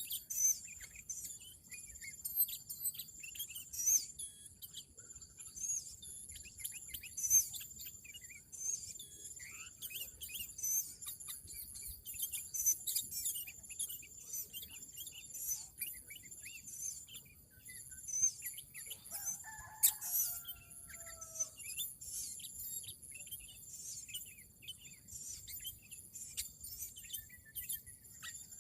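Small birds chirping over and over in short, high calls over a steady high insect drone, with a rooster crowing once about two-thirds of the way through.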